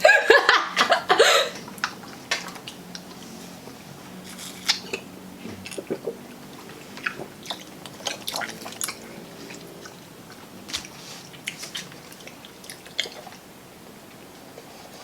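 Close-miked chewing and mouth sounds of people eating: a run of short wet clicks and smacks, after a louder burst of voice-like noise in the first second or so.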